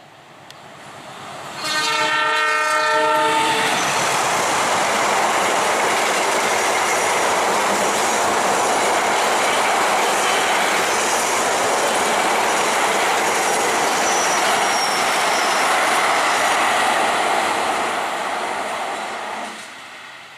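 Conventional locomotive-hauled train passing at speed. Its horn sounds once for about two seconds as it arrives, then the wheels and cars rush past steadily, with clickety-clack on the rails, until the sound drops away sharply near the end.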